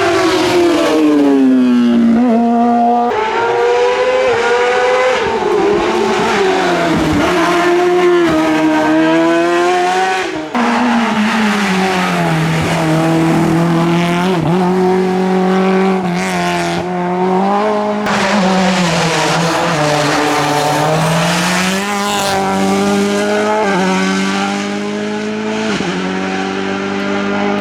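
Race car engine at full effort on a hillclimb, revving up and falling back again and again through gear changes and corners. The sound breaks off abruptly twice, about 3 and 10 seconds in.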